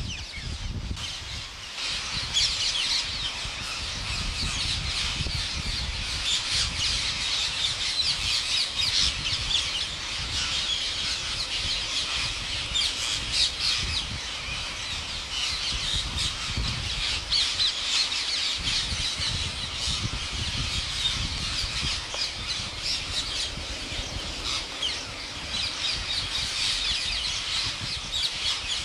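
Many parrots squawking and screeching together, a dense, unbroken chorus of overlapping shrill calls, over a low rumble.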